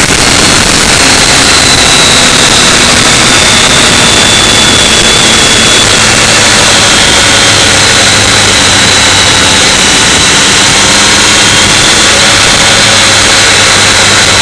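Motorcycle riding at a steady speed: the engine's steady drone under heavy wind rush on the microphone.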